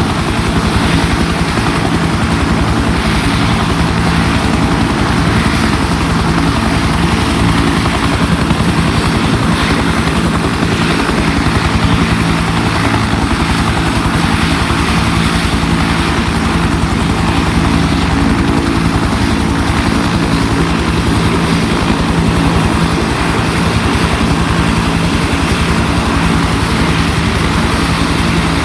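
UH-1 helicopter's turboshaft engine and two-blade main rotor running steadily and loudly, heard from on board.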